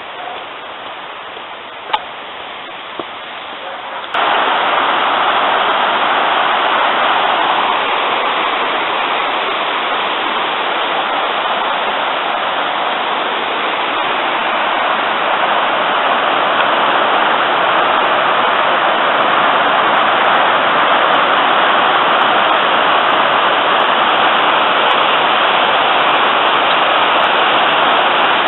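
Hillside river running high after rain, its water tumbling and rushing in a steady noise that steps up sharply louder about four seconds in. Two small clicks come before the jump.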